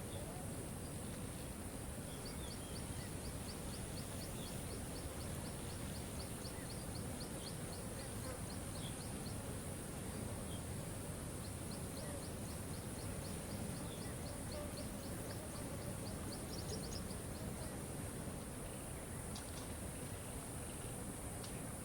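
Waterfall rushing steadily. Over it, a run of high, rapid ticking calls at about four a second is heard twice, the second run starting about halfway through.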